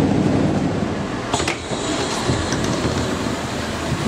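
Running noise of a moving passenger train heard from inside the carriage: a steady rumble and hiss, with a short sharp clack about a second and a half in.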